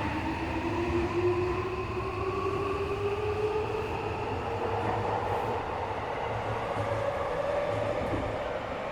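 Tokyo Metro 17000 series subway train running through a tunnel, heard from inside the car: steady wheel and rail rumble, with the traction motor and inverter whine slowly rising in pitch.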